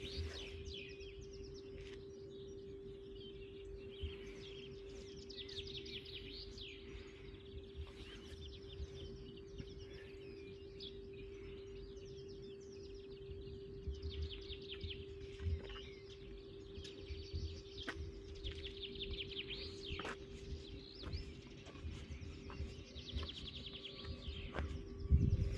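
Several songbirds singing in the trees: overlapping chirps and rapid trilling phrases, one after another. A steady low hum runs underneath, and a brief low bump comes right at the end.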